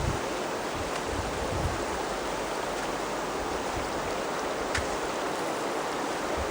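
Steady rush of river water, with one short click about three-quarters of the way through.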